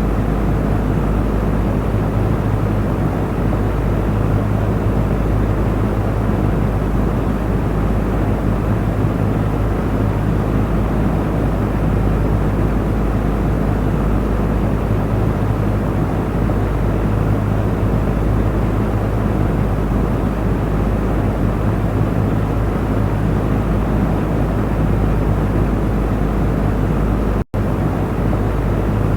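Electric cooling fan running steadily: a constant rush of moving air over a low motor hum. It cuts out for an instant near the end.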